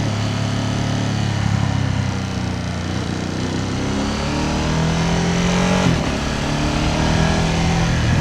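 Ducati Panigale V2S V-twin engine pulling the bike along. Its note dips about two seconds in, then climbs steadily. Near six seconds it drops sharply, as at an upshift, then climbs again.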